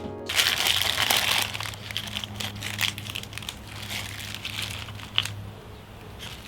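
Crinkling, rustling handling noise with scattered clicks, loudest for about the first second and then lighter and intermittent, over a low steady hum.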